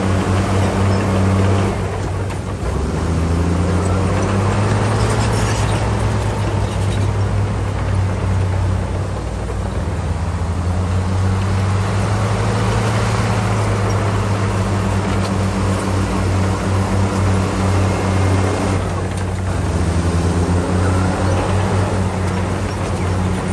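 Bulldozer's diesel engine working under load. Its note dips about two seconds in and again near the end, then climbs back up.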